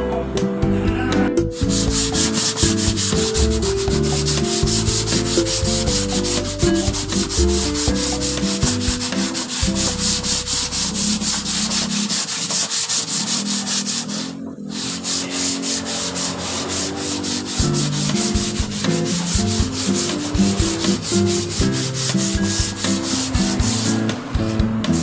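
Sandpaper rubbing in rapid, even back-and-forth strokes, with a short break about halfway through.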